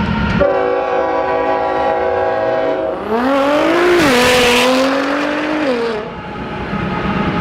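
Sports car with an aftermarket Armytrix exhaust, revving: the engine pitch climbs from about two seconds in to a loud, raspy peak near four seconds, holds a little lower, then falls away near six seconds.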